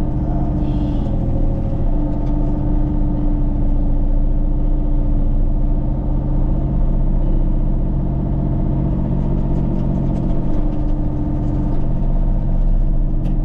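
A motor vehicle engine running steadily: an even low drone that hardly changes.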